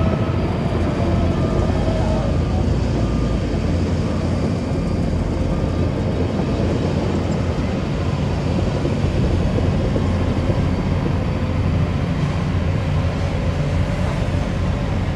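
Diesel engine of heavy earthmoving machinery running steadily under work, a constant low rumble.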